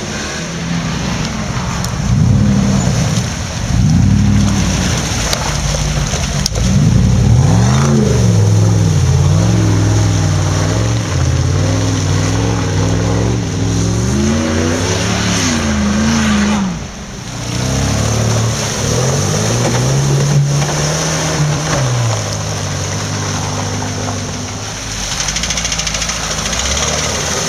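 Off-road 4x4 engines revving hard under load as they climb a muddy track, the pitch rising and falling again and again in surges. The sound drops briefly about two-thirds of the way through.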